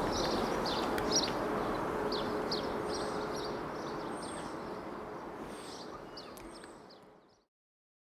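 Outdoor ambience: a steady rushing background noise with small birds chirping repeatedly, all fading out to silence about seven seconds in.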